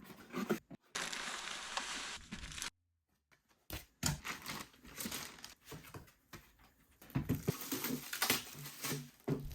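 A filament dryer's packaging being opened and handled: irregular rustling and scraping in bursts, with a few sharp knocks and a short break about three seconds in.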